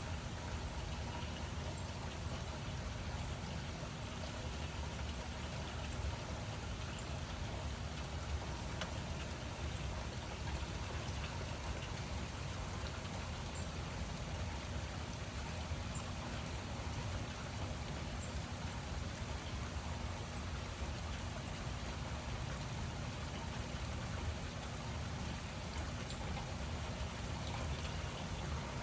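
Steady rain falling without a break, heaviest in the low range, with a few faint scattered drip ticks.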